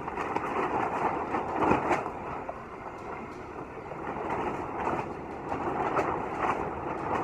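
Storm-force wind buffeting a sailboat's shrink-wrap winter cover, the plastic crackling and flapping where a seam around the mast has let go. The noise surges louder and softer every second or two.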